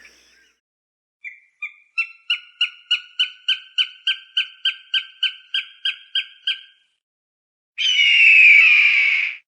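Hawk calling: a run of about seventeen short, even call notes at about three a second, starting faint and growing louder. After a pause comes one long, loud scream of about a second and a half, falling slightly in pitch.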